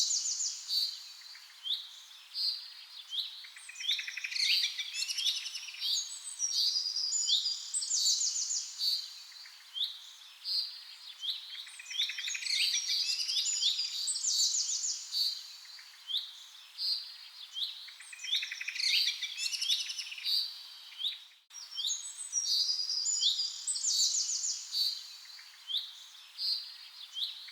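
Birds singing and calling: a dense chorus of high chirps and fast trills, with similar phrases recurring every few seconds and a momentary dropout a little over two-thirds of the way through.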